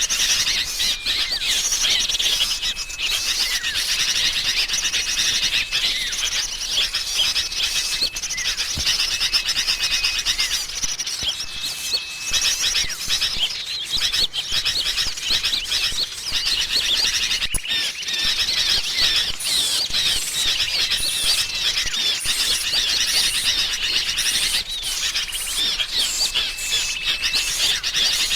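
Bird-trapping lure recording: a dense, unbroken chorus of agitated sooty-headed bulbuls mixed with small songbirds, chattering and chirping over one another. A short steady whistled note recurs every few seconds.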